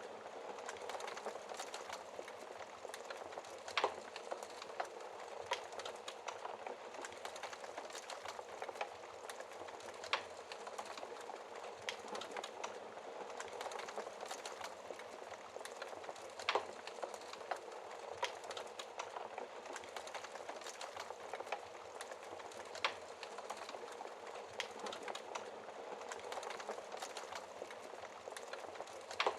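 Wood fire crackling in a fireplace: a steady hiss with many small snaps and a few louder sharp pops every several seconds.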